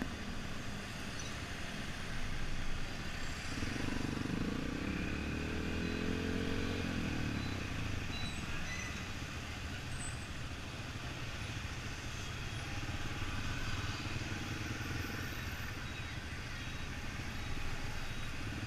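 Yamaha XTZ 125's single-cylinder four-stroke engine running on the move, its pitch rising as it accelerates about four to seven seconds in, then steadier, over constant wind and road noise.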